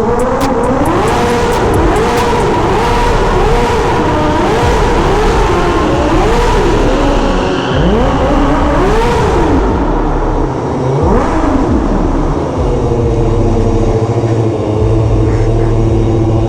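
Kawasaki ZX-6R 636's inline-four engine revved up and down over and over, about once a second, then holding a steadier note over the last few seconds.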